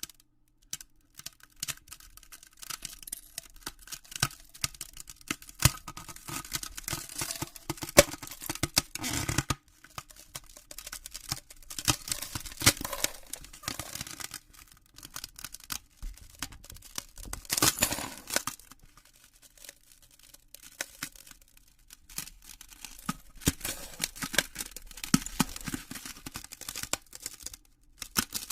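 Ice cracking: dense, irregular crackling with sharp snaps, coming in bursts of several seconds with short pauses between.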